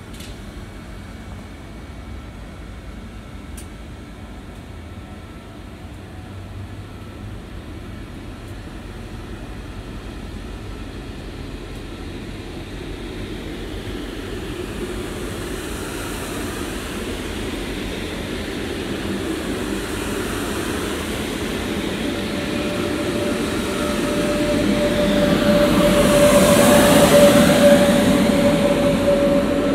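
SJ X2000 electric train rolling slowly past the platform: a low rumble of wheels on rail that grows steadily louder. Near the end a steady electric whine from the power car joins in, loudest as the car passes close, then eases slightly.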